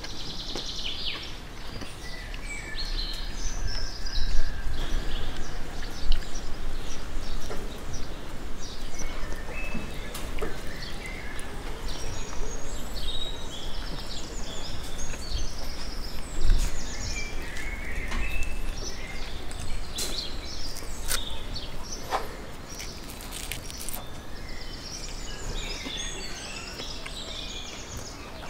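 Small birds chirping and twittering on and off over a steady low rumble of background noise, with a few sharp clicks.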